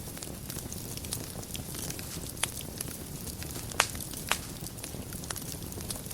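Wood fire burning in a fireplace: a steady low rumble of flames with scattered crackles and a few sharp pops, the loudest about two and a half, four and four and a half seconds in.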